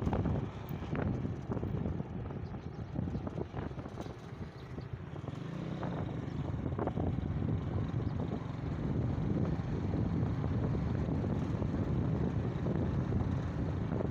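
Motorbike running on the move, its engine rumble mixed with wind noise on the microphone, steady and growing slightly louder near the end.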